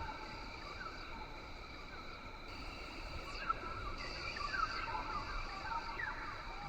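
Rainforest ambience: steady high insect drone with many short chirping calls, thicker near the start and again through the second half.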